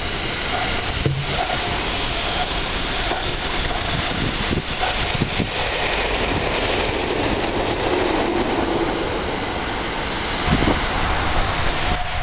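A train passing close by: a steady loud rush of wheels on the rails, with a few short knocks.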